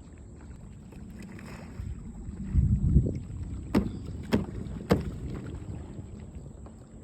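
Water splashing and sloshing as a sea kayak capsizes with its paddler for a self-rescue, loudest about two and a half to three seconds in. Three sharp knocks follow, about half a second apart.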